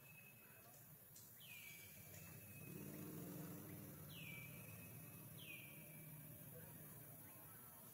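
A bird calling faintly three times. Each call is a quick note dropping in pitch that then holds briefly on one tone. A faint low hum rises and fades in the middle.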